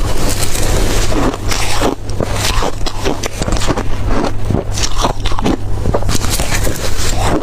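Close-up bites and crunching of blender-crushed ice in the mouth: dense, irregular, crackly crunches, over a steady low hum.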